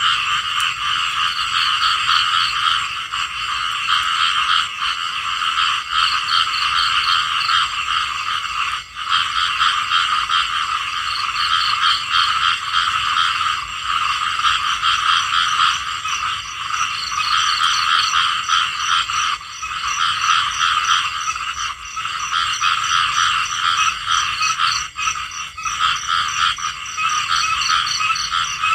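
Chorus of many small frogs (Thai khiat) calling at once, a dense overlapping mass of rapid pulsed croaks that never lets up. About halfway through a higher-pitched, evenly pulsed caller joins in.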